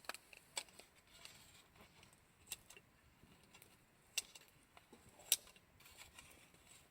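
Campfire wood crackling, with a light hiss and irregular sharp pops; the loudest pop comes a little after five seconds in.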